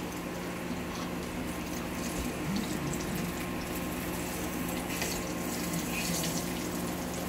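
Breaded bread pies sizzling as they shallow-fry in oil in a pan: an even, steady hiss, with a low steady hum underneath.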